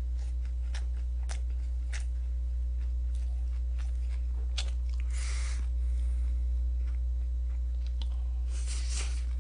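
Close-miked chewing of a mukbang meal eaten with chopsticks: scattered soft mouth clicks, with two short breathy hisses about five seconds in and near the end. A steady low electrical hum runs underneath.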